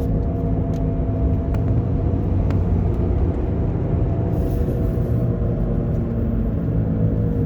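Steady drone from a failing wheel bearing in a moving Saturn Vue AWD, over tyre and road noise, heard on the passenger side. This hum is the sign of a worn wheel bearing assembly.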